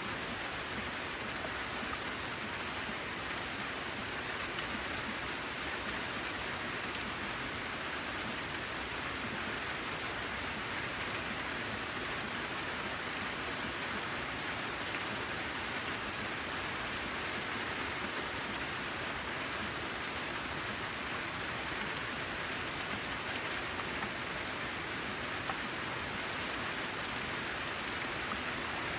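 Steady rain falling, an even hiss with a few sharper single drops ticking out of it.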